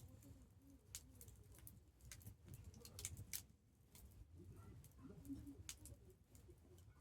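Campfire quietly crackling: scattered sharp pops and ticks from burning wood over a low steady rumble of the flames, with a few soft low hooting tones.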